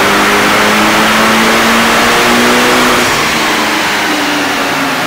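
Mitsubishi Lancer Evolution VII's turbocharged 2.0-litre four-cylinder under full load in 3rd gear on a chassis dyno, its pitch climbing slowly at high rpm during a power run. About three seconds in it gets a little quieter and the revs begin to fall as the run ends.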